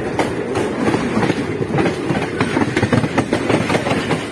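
MEMU electric multiple-unit train gathering speed as it leaves a station, heard from inside the coach: a steady rumble of wheels on track with frequent sharp clicks and clatter.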